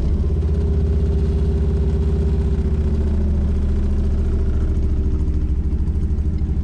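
Cammed Chevy small-block V8 in a 1983 C10 pickup running at a steady, choppy, lopey idle from its big camshaft. It is still on its cold start, with no choke on the carburetor, and is only just keeping itself running.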